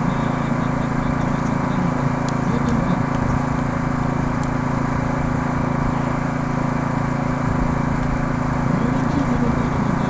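A steady engine hum, even and unchanging, with faint voices now and then.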